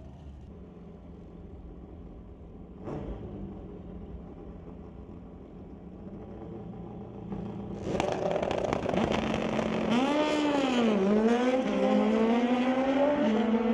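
Drag-racing motorcycle engine, running low at first, then revving hard from about eight seconds in. Its pitch dips and climbs, then rises steadily toward the end.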